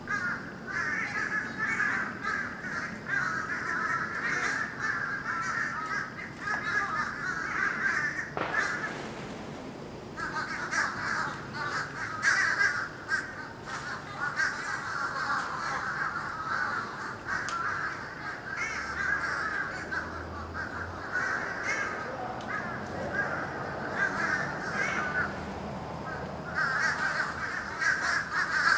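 A huge flock of birds calling all at once: a dense, continuous din of harsh, crow-like calls. It thins briefly about eight seconds in, then builds again.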